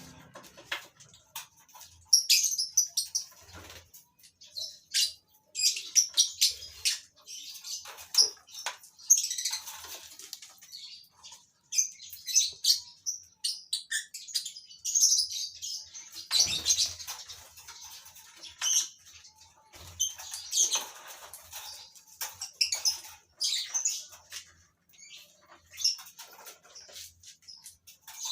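Colony of lovebirds calling: many short, high-pitched chirps and shrill calls in quick, irregular bursts.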